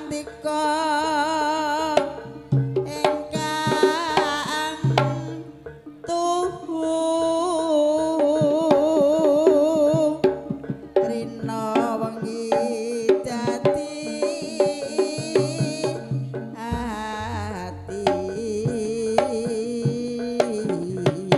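Javanese traditional dance accompaniment: hand drums beat a busy rhythm under a wavering, vibrato melody line and steady ringing tones.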